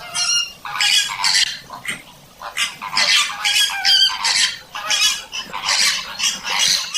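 A flock of flamingos honking, with harsh calls repeating and overlapping about once or twice a second.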